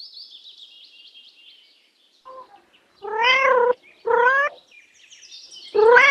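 Domestic cat meowing three times, each meow rising and then falling, with a fainter call just before them. Faint high chirping runs in the background.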